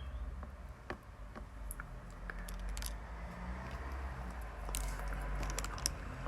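Wet, sticky mouth sounds of someone chewing a soft, chewy mochi rice cake, with scattered small clicks and smacks over a low steady hum.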